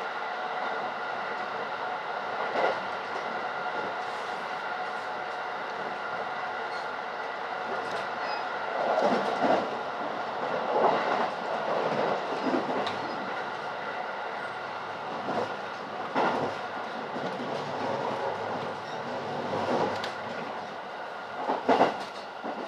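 Electric commuter train running at speed, heard from inside the passenger car: a steady rumble with steady humming tones, and the wheels clacking over rail joints every few seconds, loudest near the end.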